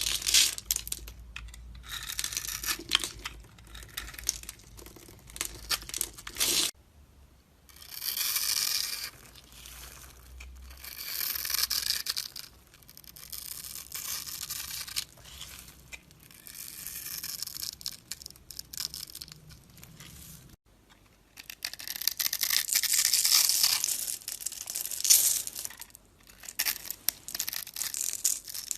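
A blade scraping and shaving a bar of soap in repeated strokes of one to three seconds each, a scratchy, crackly sound with short pauses between strokes.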